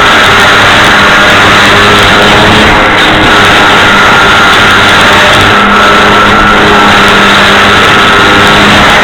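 Motor and propeller of a foam radio-controlled Cessna model plane running steadily in flight, heard from a camera mounted on its wing, with heavy wind rush on the microphone. Very loud and steady, with a faint hum and whine held throughout.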